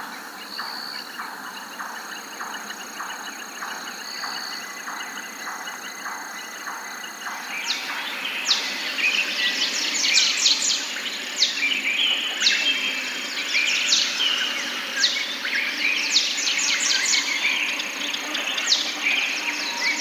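Forest birds calling: a short call repeats about twice a second, then about seven seconds in a louder chorus of quick high chirps and down-sweeping whistles takes over.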